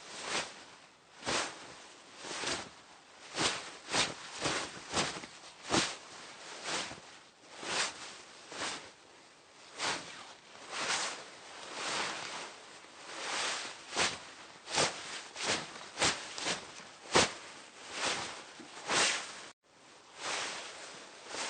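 Hanbok, Korean traditional clothing, rustling as the wearer moves: a run of irregular fabric swishes, one or two a second, some short and some drawn out. Near the end the sound drops out for a moment where the recording starts over.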